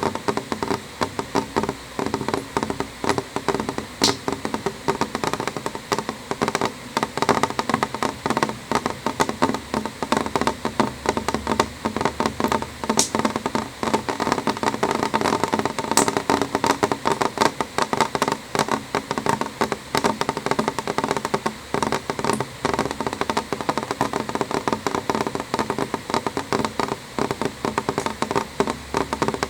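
Rain falling on a window: a steady patter of many drops tapping on the glass, with a few sharper ticks now and then.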